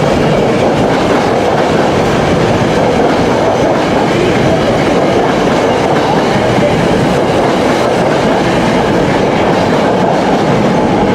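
Six-car SEPTA regional rail express train passing along the platform, with loud, steady noise from its wheels running on the rails.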